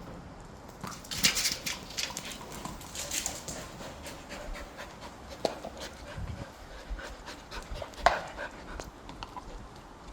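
Dog panting in irregular breathy bursts, with a few sharp clicks.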